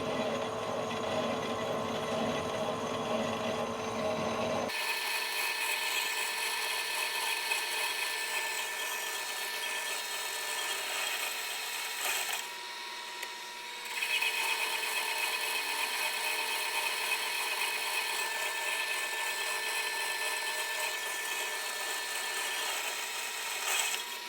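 Manual lathe taking a roughing cut on the outside diameter of a steel plate: steady machining noise with several high steady whine tones. About five seconds in, the deep low rumble stops abruptly, and the cutting sound eases off briefly about halfway through.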